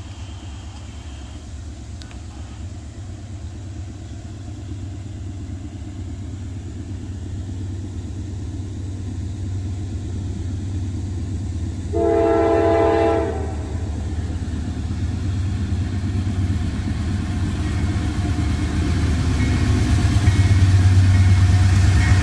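Approaching diesel locomotive: its low engine rumble grows steadily louder. About twelve seconds in there is one short horn blast of just over a second.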